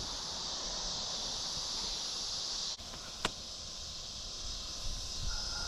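Steady, high-pitched chorus of night insects such as crickets, with one short sharp click about three seconds in.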